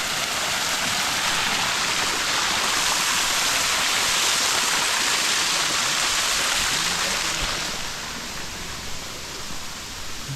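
Rushing water of a mountain stream, a steady hiss that eases off somewhat about eight seconds in.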